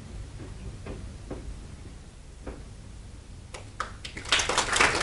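Audience applause in a hall, starting about three and a half seconds in and growing louder, after a few faint scattered knocks.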